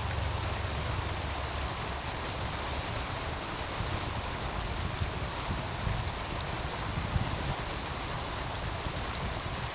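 Wood fire crackling, with scattered sharp pops, over the steady rushing of a meltwater stream. Two louder pops come about seven and nine seconds in.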